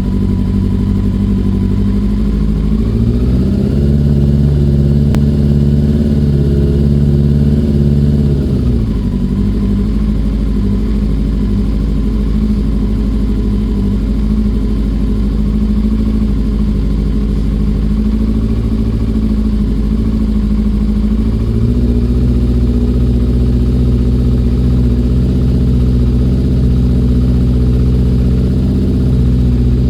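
Yamaha Thunderace's inline-four engine running while it warms up, mostly at a steady idle. About three seconds in the revs rise and hold for about five seconds, then drop back to idle.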